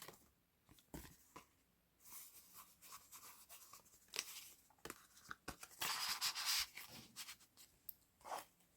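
Paper and card rustling and crinkling as journal pages and paper tags are handled, with scattered light taps and clicks. A longer, louder rustle comes about six seconds in.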